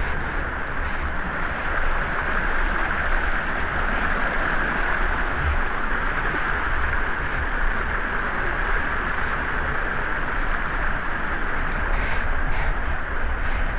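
Waterfall and river water rushing, a steady, even roar with no breaks.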